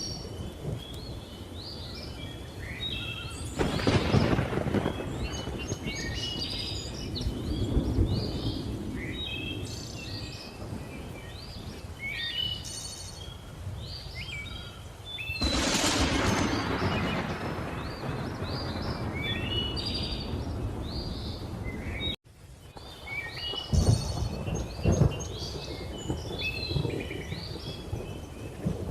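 Rolling thunder swells up three times, around 4 s, 16 s and 25 s in, under a steady chorus of many small tropical birds chirping and whistling. The sound cuts out for an instant about two-thirds of the way through.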